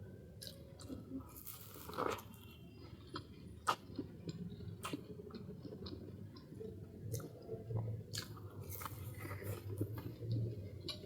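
Close-miked chewing and biting of a Nepali puff pastry, with soft mouth clicks and a few crisp crunches, the loudest about two seconds in and again near the end.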